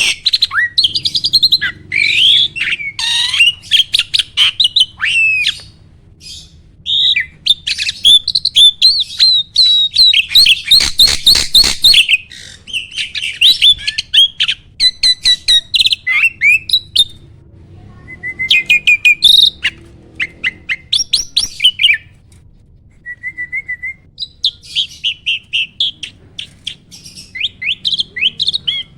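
A caged jalak (starling) singing: rapid, loud runs of short chattering notes and whistles, broken by a few short pauses.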